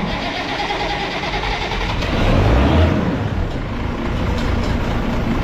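Farm tractor engine running under way, a loud steady machine drone that cuts in suddenly, swelling a little about two seconds in.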